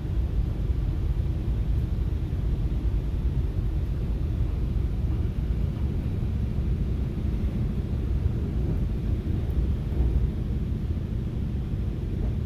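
Steady low rumble of a FrontRunner commuter train running at speed, heard from inside the passenger car. A faint steady low hum joins about halfway through.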